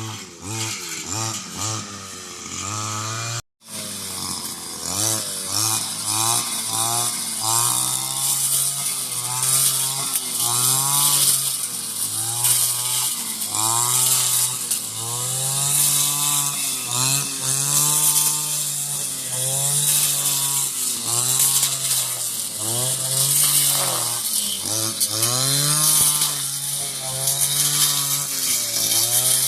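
A chorus of frogs calling after rain: many overlapping low, buzzy calls, each rising and falling in pitch over about a second, repeating continuously over a steady high hiss. The sound cuts out briefly about three and a half seconds in.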